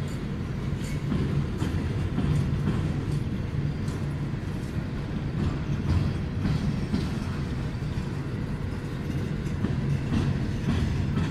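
Empty coal hopper cars of a freight train rolling slowly past: a steady low rumble with scattered faint wheel clicks.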